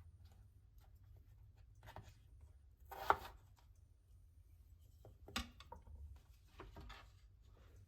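Scattered light knocks and clicks of kitchen utensils and food being handled, the loudest about three seconds in, over a faint low hum.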